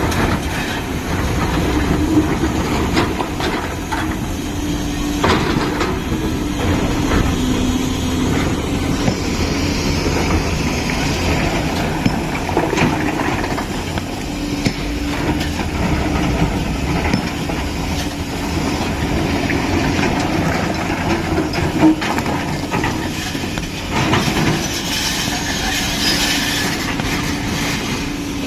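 JCB 5CX backhoe loader working: its diesel engine running steadily with a held whine, and a few sharp clanks scattered through.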